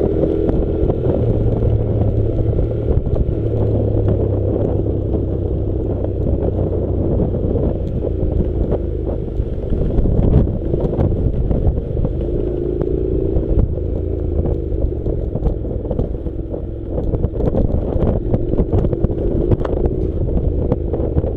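Honda NC700 parallel-twin engine running at low, steady revs while the motorcycle rides a rough dirt track. Frequent short knocks and rattles come from the bike going over bumps and stones.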